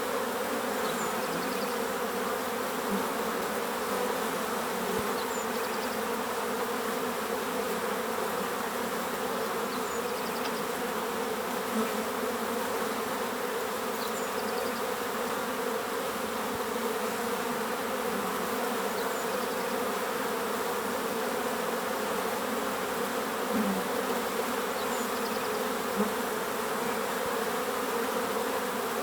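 Many bees buzzing in a steady, unbroken drone. Faint short high bird chirps come through about every four to five seconds.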